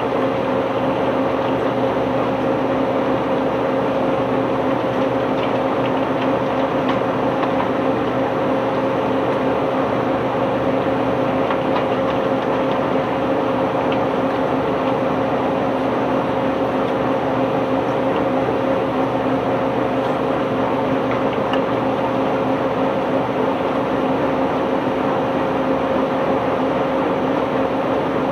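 Heavy unloading machinery running at a constant speed: a steady mechanical drone carrying a held hum.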